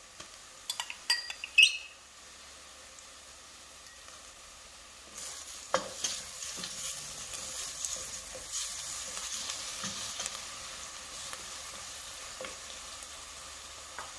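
Ginger and garlic paste being added to onions frying in oil in a stainless steel pot: a metal spoon clinks sharply a few times in the first two seconds. From about five seconds in, a steady sizzle with scraping as the mixture is stirred with a wooden spoon.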